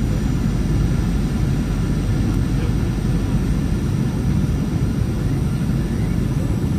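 Steady low rumble of a Boeing jet airliner heard from inside the passenger cabin: engine and airflow noise on the landing approach.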